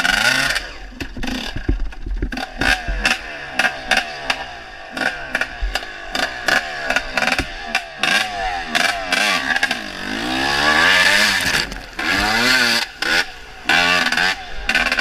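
Dirt bike engine being ridden hard, its pitch rising and falling repeatedly as it revs up and drops back, with many short sharp knocks throughout.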